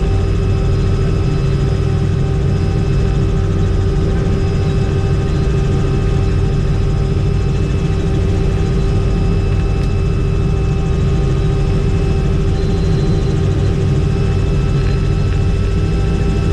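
Helicopter in flight heard from inside the cabin: a loud, steady rotor and turbine drone with a constant low rumble and several steady whining tones above it.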